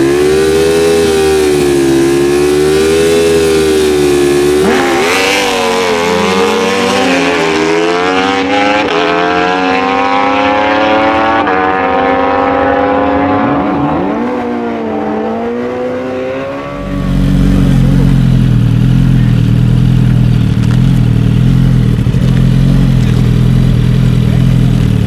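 Naturally aspirated stock drag-racing motorcycles revving, then accelerating hard, the engine pitch wavering and then climbing with breaks at the gear shifts. About two-thirds of the way through, the sound switches abruptly to a lower, steadier engine drone.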